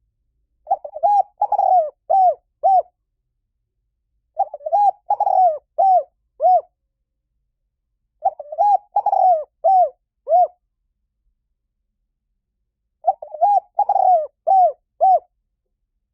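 Spotted dove cooing: four phrases of about five coos each, roughly every four seconds, the last notes of each phrase shorter and clipped.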